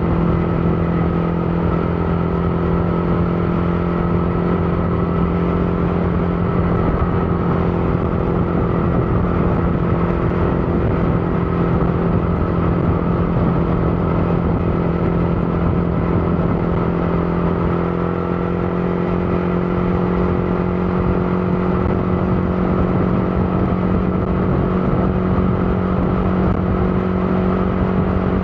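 Motorcycle engine running at steady revs while riding, its pitch holding nearly constant.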